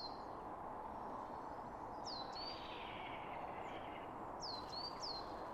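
A bird calling at intervals of about two and a half seconds, each call a quick high downward sweep ending in a short level note, sometimes given twice in quick succession, over a steady outdoor rushing background.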